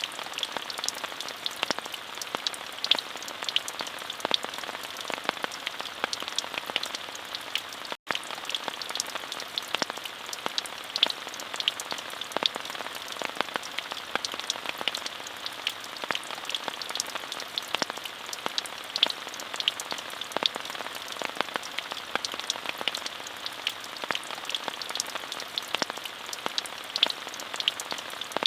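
Steady rain falling: an even hiss dotted with many sharp drop ticks. The sound cuts out for an instant about eight seconds in.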